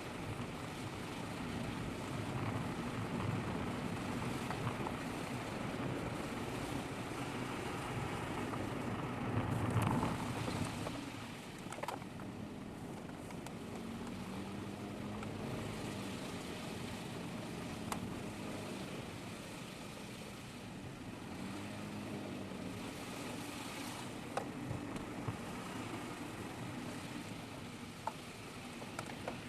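Car driving along a narrow mountain road, heard from a dashboard camera inside the cabin: steady engine and tyre noise, with the engine note rising and falling a few times. A few small knocks from the road surface.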